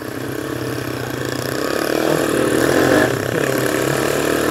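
Honda C70 motorcycle's small engine running and picking up revs, getting louder about two seconds in.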